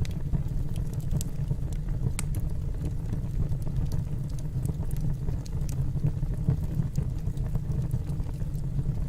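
Wood fire burning in a fireplace: a steady low rumble of the flames with scattered sharp crackles and pops from the burning logs, the sharpest about two seconds in.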